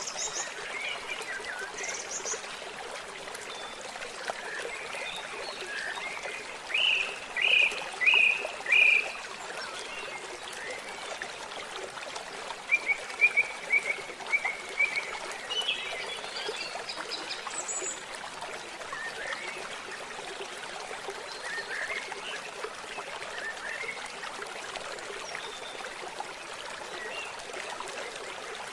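Forest ambience: a steady trickle of running water with birds calling over it. A run of four loud call notes comes about seven seconds in, and a quick series of chirps around the middle.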